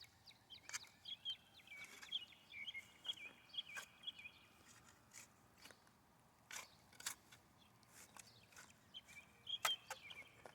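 Small birds chirping in short, high notes for the first few seconds and again near the end, with scattered light clicks and scrapes.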